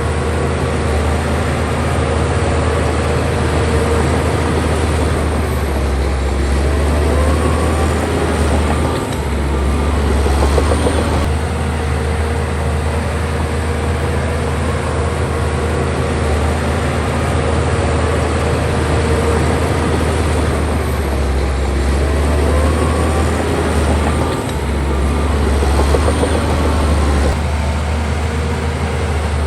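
Crawler bulldozer's heavy diesel engine running steadily at work. Twice it gets louder for several seconds, with a dense rattle and a short rising whine, as the machine works under load.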